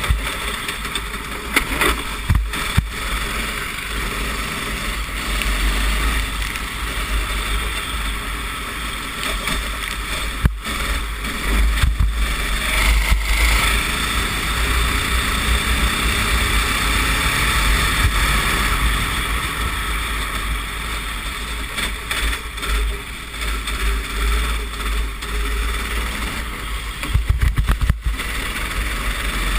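Racing kart engine running hard during an onboard lap on a wet track, with wind rumbling on the microphone and a few sharp knocks.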